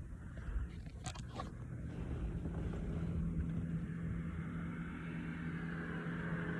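A steady low engine hum, with a couple of brief handling knocks about a second in.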